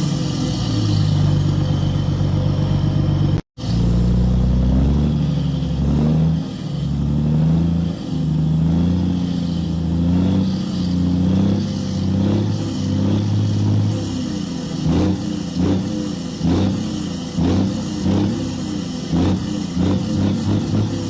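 Caterpillar wheel loader's diesel engine revving up and down as it works, dropping out for an instant a few seconds in. From about two-thirds of the way through, a run of sharp knocks and clatter.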